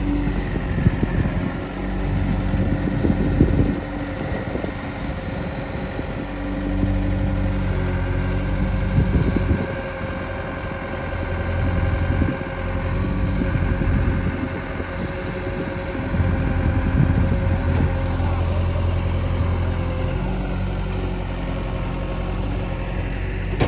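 Diesel engines of a backhoe loader and a farm tractor running while soil is loaded. The engine note swells and eases in spells of a few seconds as the machines work.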